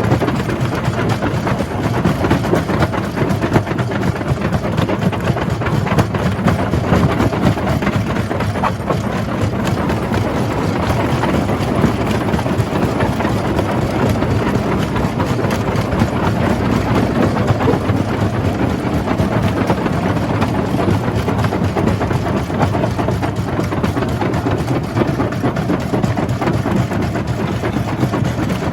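Jaw crusher running and crushing rock: a steady, loud heavy-machine din thick with rapid small knocks and clatter.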